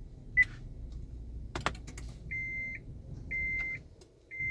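Honda Odyssey's dashboard warning chime sounding three short, high, even beeps about a second apart, after a single sharp click, over a steady low hum.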